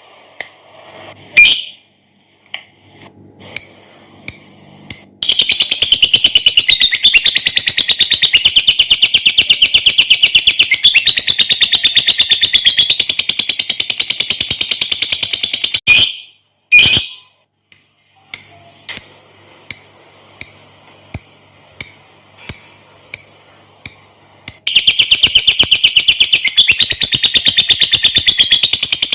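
Lovebird singing its long 'ngekek' chatter: a very fast, high-pitched, rattling trill held for about ten seconds. Single sharp chirps come before and after it, and another long trill starts near the end.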